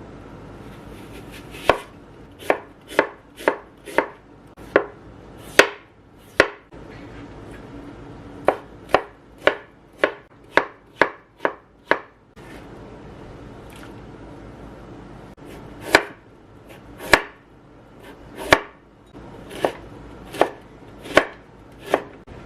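Kitchen knife chopping on a cutting board: sharp single strokes about two a second, in three runs with short pauses between.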